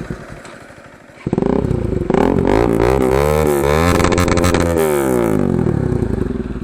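Bajaj Pulsar NS 200's single-cylinder engine through a loud modified aftermarket exhaust, revved hard from idle about a second in, its pitch rising and falling in several quick blips, then dropping back to idle near the end.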